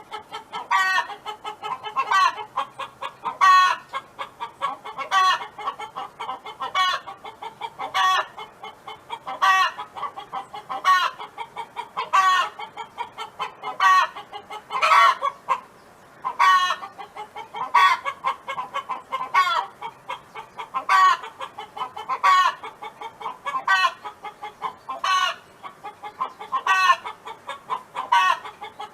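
A domestic hen calling over and over: runs of short, quick clucks each lead into a louder, drawn-out call. The calls repeat steadily, about one every one and a half seconds.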